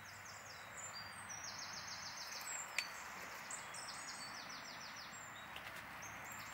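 A small songbird singing several bouts of rapid, high, repeated notes over a faint steady outdoor hiss, with one short tap a little before halfway.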